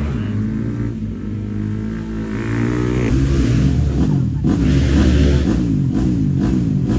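Motocross bike engines revving, the pitch climbing and dropping again and again as the riders open and close the throttle and shift. The engine noise gets louder about three seconds in.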